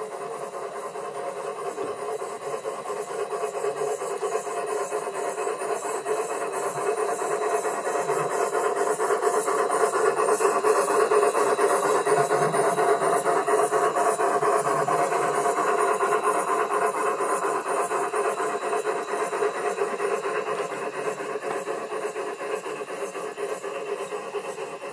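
Steam-outline train running past on its track: a continuous rasping clatter of wheels and running gear that grows louder, peaks about halfway through as the locomotive is closest, then fades.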